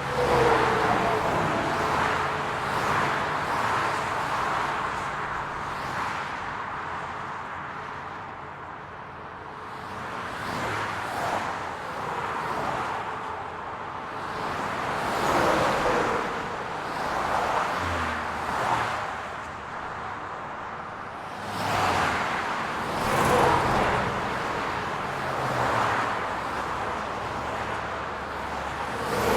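City street traffic: a steady low hum of engines with cars passing one after another, each swelling up and falling away over a few seconds.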